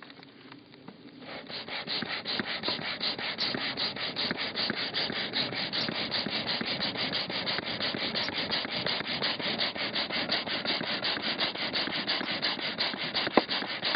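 A small inflatable-boat air pump worked fast as bellows, blowing air into a campfire of wet wood. It makes an even, rhythmic whooshing of several strokes a second, starting about a second in.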